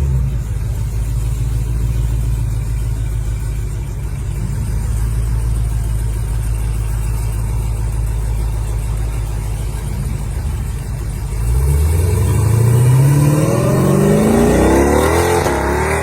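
Jeep Grand Cherokee Trackhawk's supercharged V8 holding a steady low drone, then launching hard about eleven seconds in, its revs climbing and rising again through the gears as the SUV accelerates.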